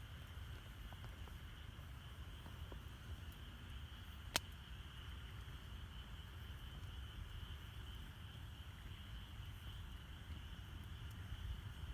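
Campfire burning, with faint small crackles and one sharp pop a little over four seconds in, over a steady high chirring of night insects.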